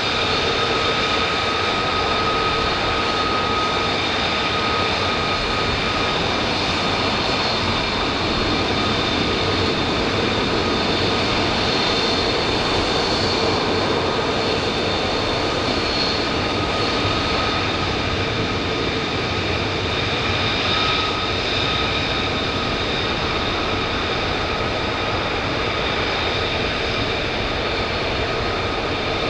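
Military jet engine running steadily: a broad rush with a high, multi-pitched whine that holds level, without rising or fading.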